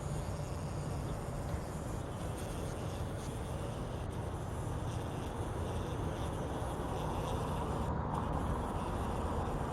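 Steady low outdoor rumble, with a faint steady buzz from a bee trapped inside a flower.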